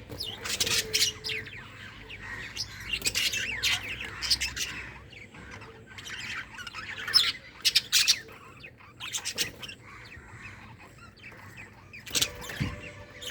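Pet budgerigars chirping and squawking: bursts of sharp, high calls in clusters, with softer warbling chatter between them.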